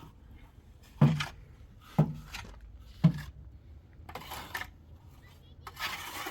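Three sharp knocks about a second apart, each a hard object striking with a dull thud and a clatter, followed by two short scraping sounds.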